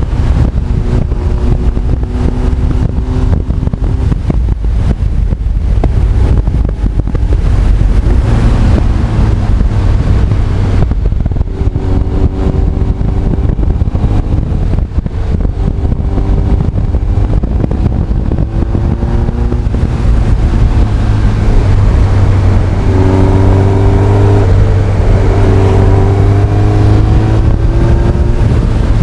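Honda CB1300 Super Bol d'Or's inline-four engine running on the move, its note rising and stepping back down several times as it accelerates and shifts gears, under heavy wind noise on the helmet or bike-mounted camera microphone.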